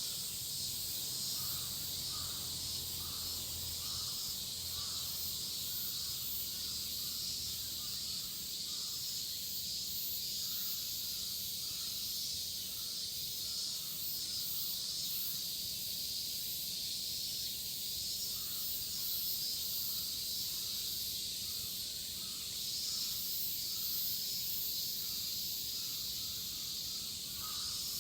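Cicada chorus: a steady, shrill, high drone. Over it, a lower call repeats about twice a second in runs, through the first third and again from about two-thirds of the way on.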